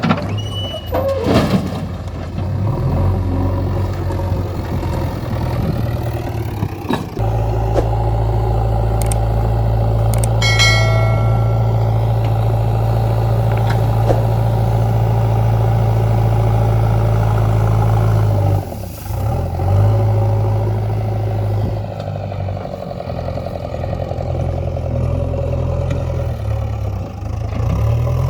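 Heavy diesel engine of earthmoving machinery running, going up to a louder, steady working note about seven seconds in, dropping off briefly after about eighteen seconds and then picking up again. A short clatter comes near the start and a brief high-pitched squeal about ten seconds in.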